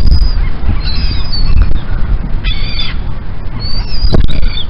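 Seagulls squawking again and again, with several short calls overlapping, over a steady low rumble.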